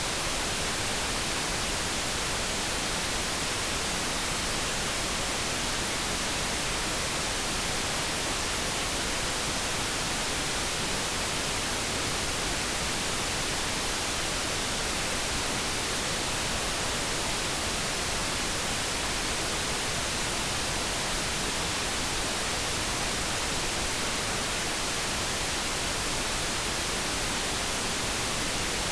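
Steady synthetic brown noise: an even, unbroken rushing hiss with no tone or other event in it.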